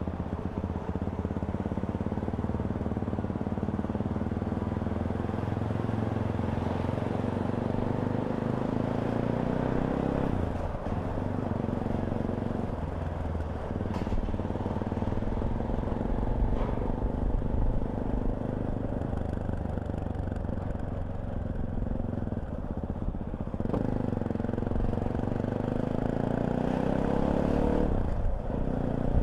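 Fantic Caballero 500's single-cylinder four-stroke engine running on the move. Its pitch climbs slowly with the throttle and breaks and drops several times at gear changes or as the throttle is rolled off.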